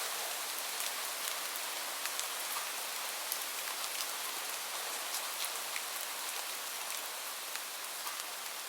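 Steady rain falling: an even hiss with scattered, sharp ticks of individual drops hitting close by.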